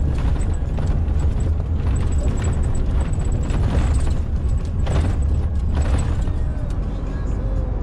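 Truck cab interior: steady low engine and road rumble, with irregular knocks and jolts as the tyres run over the rough, broken old concrete road surface.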